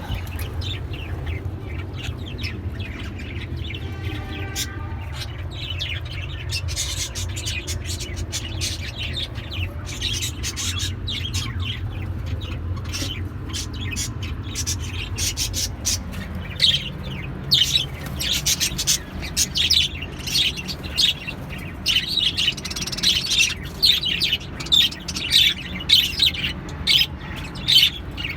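Pet birds chirping with short, high tweets, sparse at first and then coming thick and fast through the second half, over a steady low hum.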